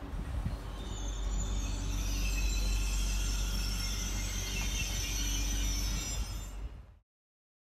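Regional multiple-unit train pulling away, a steady low rumble with high wheel squeal building over a few seconds; the sound cuts off abruptly near the end.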